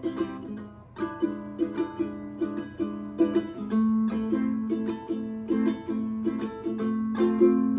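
Solo plucked string instrument playing a picked melody, several notes a second over a held low note, briefly thinning out just before a second in and growing fuller and louder from about three seconds on.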